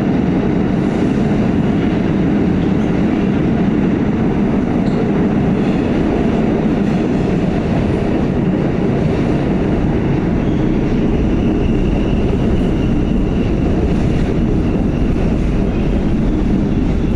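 Pullman-Standard R46 subway car running at speed in a tunnel: a loud, steady rumble of wheels on rail. A faint, steady high whine joins about two-thirds of the way through.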